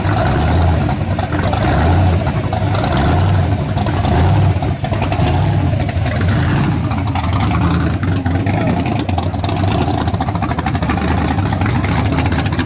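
Supercharged V8 of a pro street 1971 Dodge Demon, its Roots-style blower sticking up through the hood, running with an uneven, loping idle as the car creeps along.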